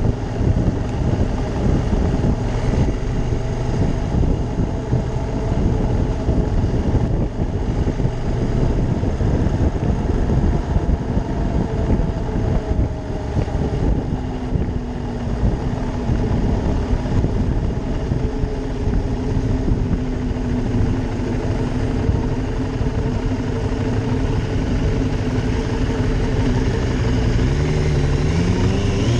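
Ducati Monster 620's air-cooled L-twin engine running while riding, its note drifting slowly up and down, then climbing in a rising rev near the end.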